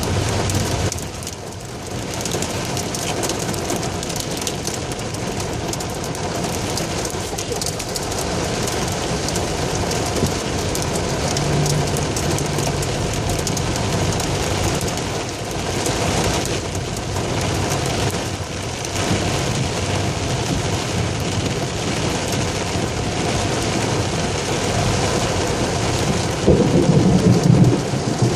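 Heavy tropical rain pouring down steadily, with a louder low rumble near the end.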